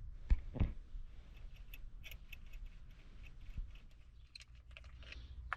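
Light, scattered clicks and faint scraping from hands working on small parts, with two sharper clicks in the first second.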